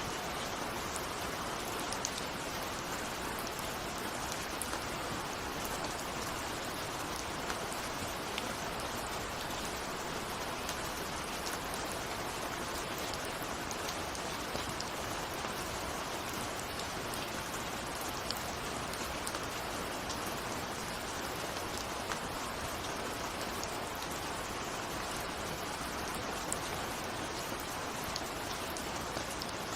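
Steady rain falling, with scattered drops ticking on a window.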